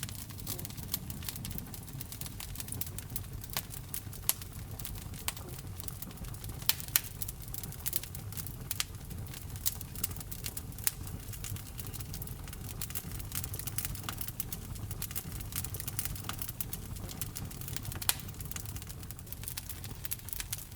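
Wood fire burning in a fireplace: a low steady rumble of the flames with irregular crackles and occasional louder pops.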